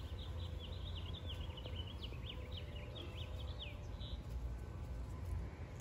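A small songbird twittering: a quick run of short, high chirps lasting about four seconds. It sits over a steady low outdoor rumble.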